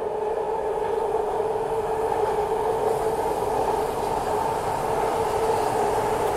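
BART Legacy Fleet train running through the station on the elevated track without stopping: a steady whine over the noise of the wheels on the rails.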